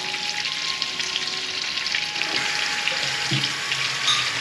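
Sausage frying in a pan, a steady sizzle with scattered crackling pops as it browns.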